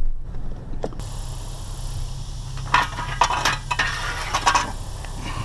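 Metal scrap clinking and rattling in a cluster of ringing strikes a few seconds in, after a single knock about a second in, over the steady low hum of an idling truck engine.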